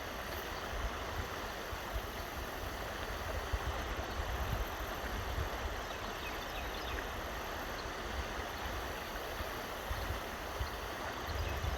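Steady rush of flowing river water, an even hiss with a low rumble underneath.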